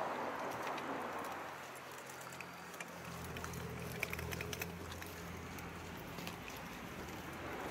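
A railway train's low, steady engine hum sets in about three seconds in, with scattered faint clicks.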